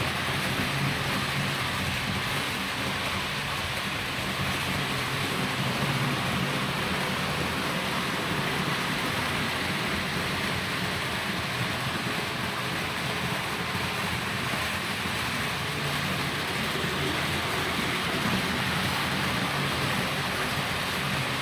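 HO-scale model train running on the layout's track: a steady hiss of metal wheels on the rails with a low, even motor hum underneath.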